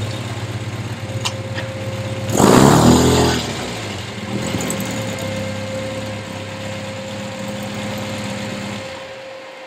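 A vehicle engine running at low revs, with one louder surge lasting about a second, two and a half seconds in. The engine sound drops away near the end.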